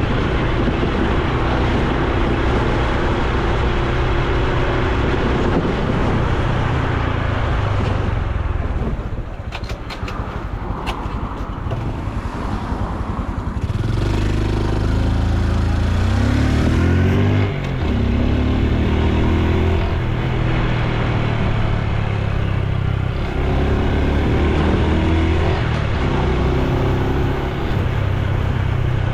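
Honda Super Cub C125's single-cylinder four-stroke engine and exhaust running while riding. It eases off about a third of the way in, then revs up again in rising steps, as if through the gears, twice in the second half.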